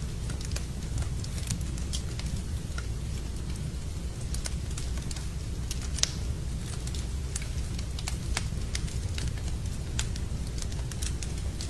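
Wood fire crackling in a fireplace, with irregular sharp pops over a steady low rumble; the loudest pop comes about six seconds in.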